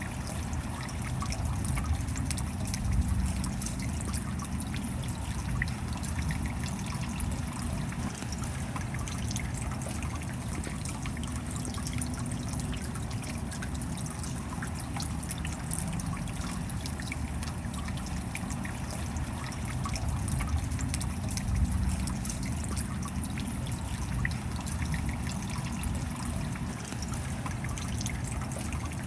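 Steady rain: an even wash of water noise with a heavy low rumble, dotted with countless small drop ticks.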